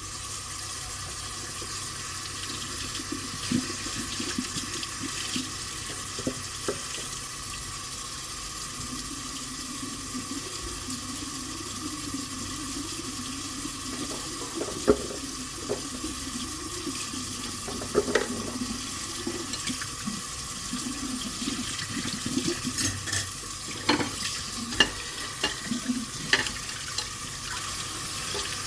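Water running from a tap into a sink as dishes are washed by hand, steady throughout. Short clinks and knocks of dishes come now and then, more often in the second half.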